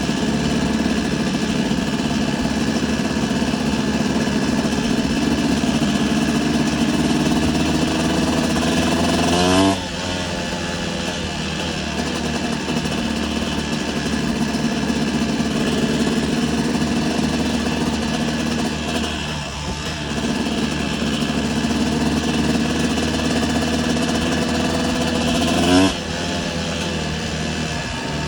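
Motocross bike engine pulling under throttle, its pitch climbing slowly and then falling sharply at a gear change about ten seconds in, and climbing again to another shift near the end.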